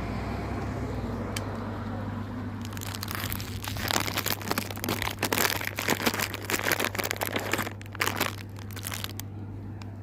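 Dense crinkling and crunching starts about three seconds in and stops abruptly some six seconds later, over a steady low hum.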